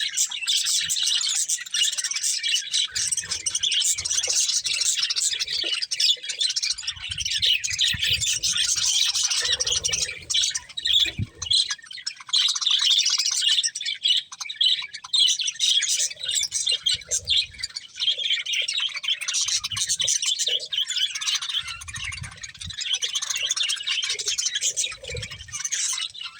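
Several budgerigars chirping and chattering continuously, with occasional low thumps.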